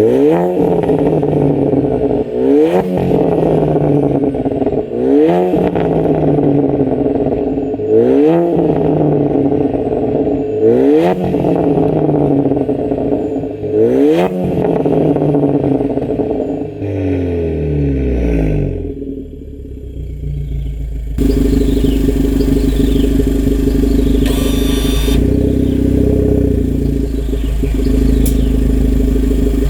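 Volkswagen Golf MK7 1.4 TSI turbocharged four-cylinder through an aftermarket full exhaust with no valve, free-revved about six times, roughly one sharp blip every three seconds. It drops back to a quieter idle, and about two-thirds of the way through gives way to a louder, steady, low running sound with no revving.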